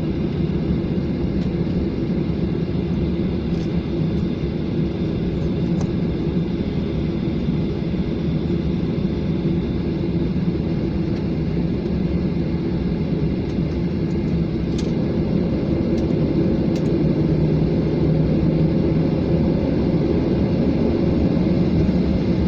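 Steady low drone of an airliner's engines, with a few faint clicks, growing slightly louder in the last few seconds.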